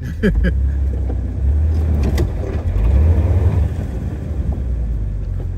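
Jeep engine running with a deep, steady rumble that swells louder for about two seconds in the middle, with a single sharp click partway through.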